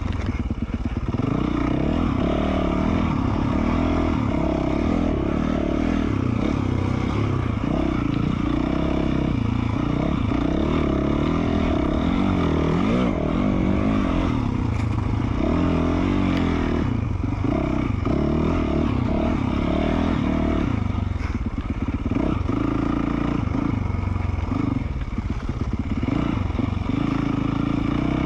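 2020 Yamaha YZ450F single-cylinder four-stroke dirt bike engine, breathing through an FMF Q4 slip-on muffler, running under way with its pitch rising and falling again and again as the throttle is worked.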